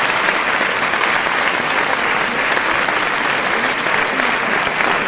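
Applause from a large crowd: many people clapping at once in a dense, continuous patter that holds steady without a break.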